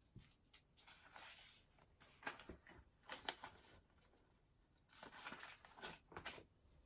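Paper rustling and being handled in a few short bursts, with several sharp clicks and taps.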